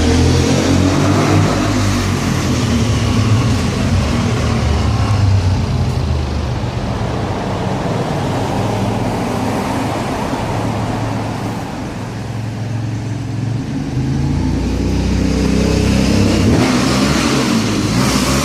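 Aprilia Shiver 750's V-twin engine running through an Arrow aftermarket exhaust, loud and continuous. The note eases off about twelve seconds in and builds again a couple of seconds later.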